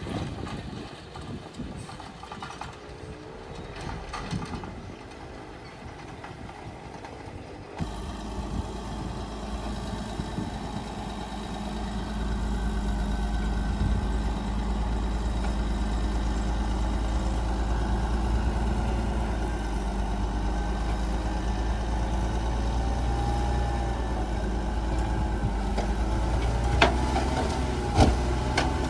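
Bulldozer's diesel engine running steadily with a deep drone, cutting in abruptly about eight seconds in and getting louder a few seconds later. Near the end there are two sharp metallic clanks.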